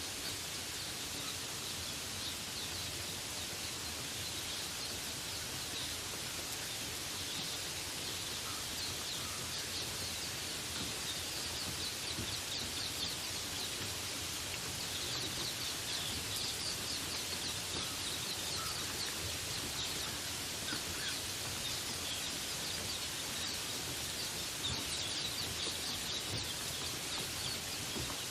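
Steady rain hiss with small birds chirping in quick, high trills throughout, and a few lower single chirps now and then.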